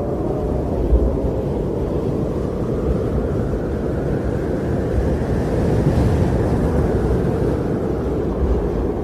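Strong wind blowing in a steady, low rushing rumble that swells a little past the middle, with a brief low thump about a second in.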